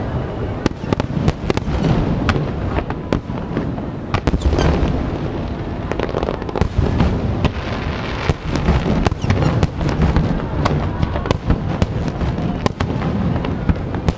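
Aerial fireworks bursting in quick succession: many sharp crackling pops and cracks over a continuous low rumble of shell explosions.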